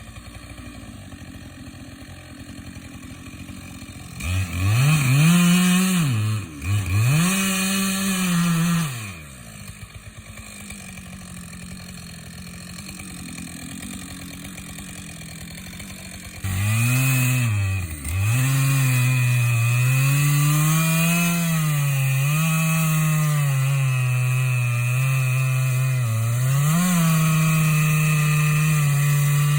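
Stihl chainsaw idling, revved up twice briefly, then dropping back to idle. About 16 seconds in it goes to full throttle and stays there, its pitch dipping and recovering as the chain cuts into wood.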